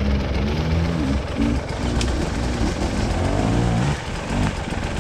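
A vehicle engine running steadily, its pitch wavering up and down.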